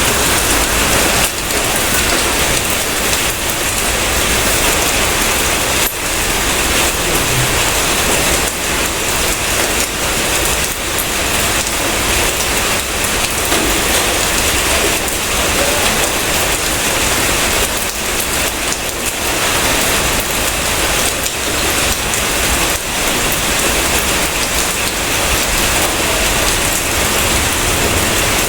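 Steady heavy rain: an even, dense hiss of rainfall with scattered sharper drop hits.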